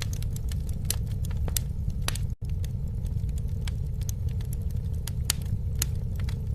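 Campfire burning, with a steady low rumble and many scattered sharp crackles and pops. The sound cuts out for an instant about two and a half seconds in.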